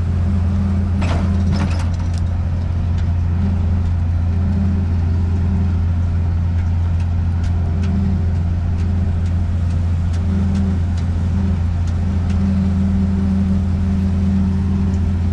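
Zmaj 142 combine harvester's diesel engine running steadily as the machine creeps along a narrow track, with a few sharp clicks about a second in.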